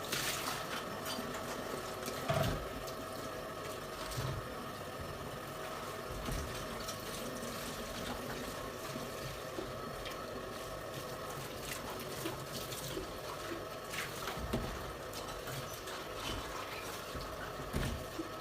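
Water running steadily, with scattered knocks and clunks, the loudest about two seconds in and near the end.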